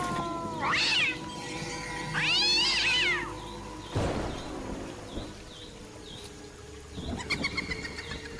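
Two loud, drawn-out animal cries, each rising and then falling in pitch, about a second and a half apart. A thump follows about four seconds in, then faint short chirps and a few clicks near the end.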